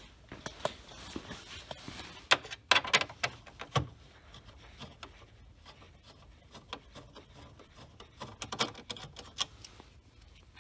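Irregular clicks, taps and knocks of hand tools, screws and plastic dash trim being handled while 7mm screws are taken out under a car's dash. The clicks come in two clusters, with a quieter stretch between them.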